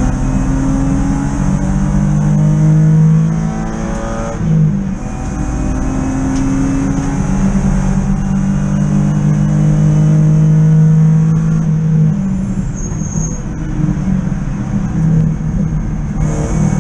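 BMW 323i E36 race car's 2.5-litre straight-six, heard from inside the cabin, revving hard under acceleration. The pitch climbs steadily, breaks briefly about four and a half seconds in, climbs again for several seconds, then drops off near twelve seconds into more uneven running.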